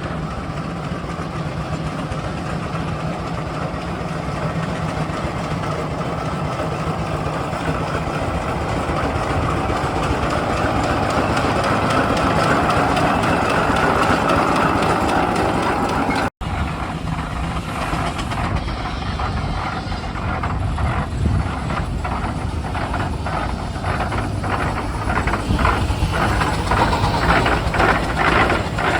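Heavy engine machinery running loudly and steadily; after a cut about halfway through, a rhythmic beating sets in and grows faster near the end.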